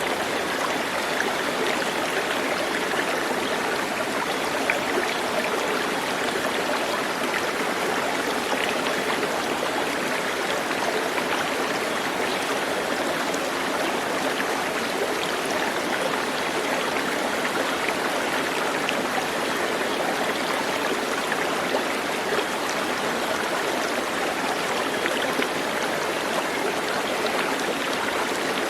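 Steady running water of a stream, a continuous rushing and trickling with no breaks.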